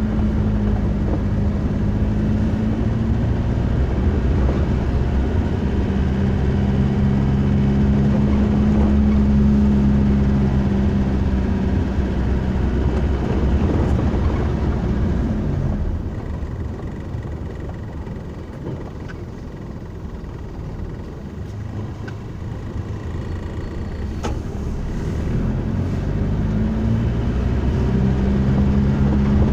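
Car engine and road noise heard while driving, with a steady low engine hum. It eases off and grows quieter about halfway through, then builds up again near the end.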